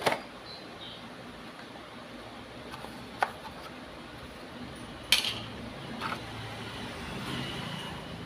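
A few sharp clicks and knocks of small hard objects being handled and set down, the loudest about five seconds in.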